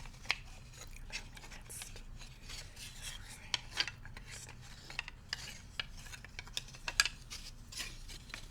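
Bamboo cooking utensils being scratched and rubbed, with irregular light taps and clicks; the sharpest tap comes about seven seconds in.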